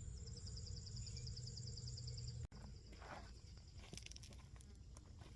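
An insect trilling outdoors: a high, steady buzz made of very fast even pulses, which fades out a little before the end, with a few soft knocks and rustles of handling near the end.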